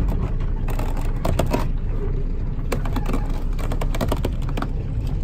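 Speedboat engine running with a steady low rumble, with a rapid, irregular series of clicks and knocks over it.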